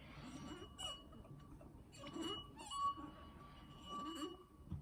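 A drinking glass partly filled with water, made to sing by rubbing around its rim: a thin, steady, fairly high ringing tone that swells and fades several times.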